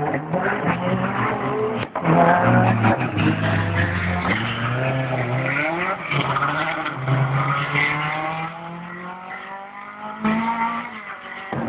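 Rally car engines revving and accelerating, the engine note climbing and dropping as the gears change.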